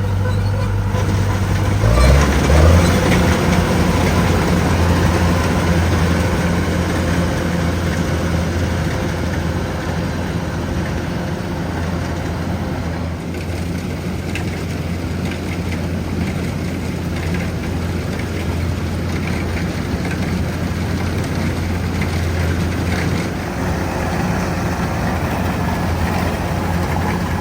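Rice combine harvester's engine running steadily, stepping up in speed about two seconds in.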